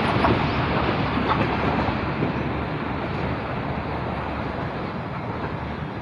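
Passenger train running through at speed, its coaches rolling past with a steady rushing rumble and a few wheel clicks over the rail joints. The noise fades slowly as the last coaches go by.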